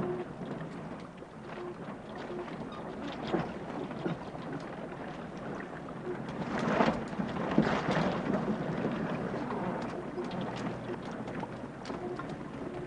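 Water sloshing and lapping against drifting small sailboats, with wind and scattered light knocks. The sloshing swells louder about halfway through.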